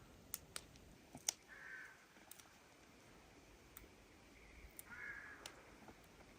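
Faint background with two short bird calls about three seconds apart and scattered small clicks.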